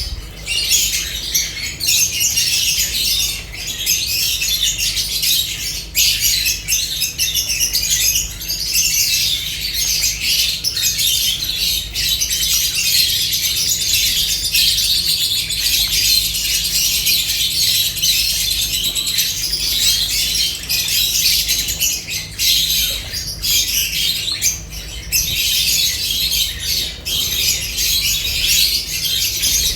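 A flock of lovebirds chattering and squawking nonstop, a dense tangle of high-pitched calls.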